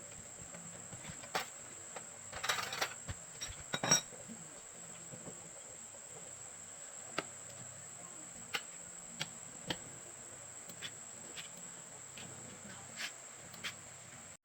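Steady high-pitched insect trill, with light clicks and taps scattered through it: a small cluster about two and a half seconds in and a sharper knock near four seconds.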